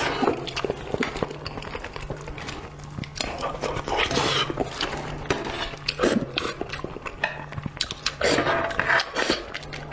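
Close-miked eating sounds: irregular wet chewing and slurping, with small clicks of utensils against a dish.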